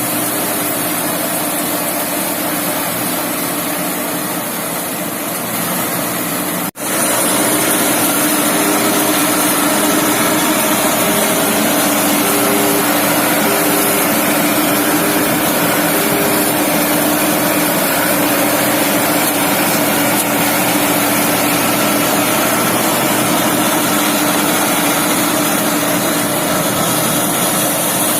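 Farm machine engine running steadily and loudly. It breaks off for an instant about seven seconds in, then carries on louder, with an on-off tone sounding over it for several seconds.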